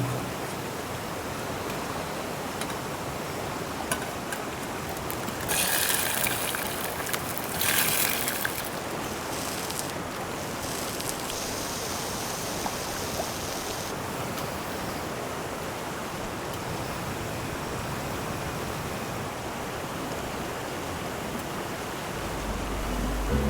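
A mountain river rushing steadily. Two short spells of louder hiss come about six and eight seconds in.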